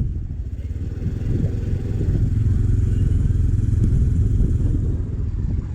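Motorcycle engine running steadily while riding, heard as a continuous low rumble.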